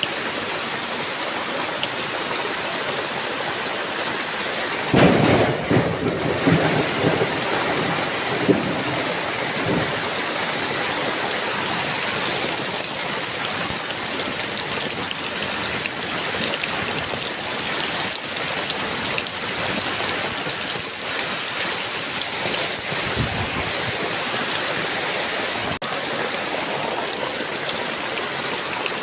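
Heavy rain falling steadily, with a thunderclap about five seconds in that rumbles and fades over the next few seconds, and a fainter rumble of thunder later on.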